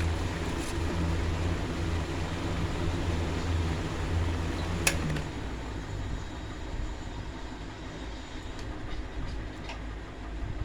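Electric table fan motor running with a steady low mains hum; a sharp click about halfway through, after which the hum fades.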